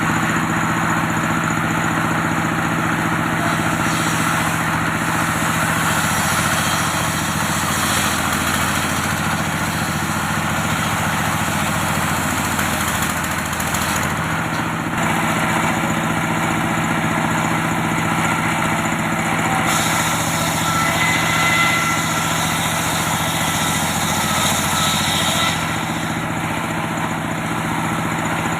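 Antique circular sawmill running, its engine humming steadily. Partway through, a higher whine joins in for several seconds as the blade works through teak.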